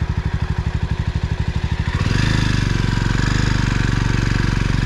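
Jawa motorcycle engine running on the move, its exhaust beating in even low pulses; about two seconds in the note grows louder and fuller as the throttle opens.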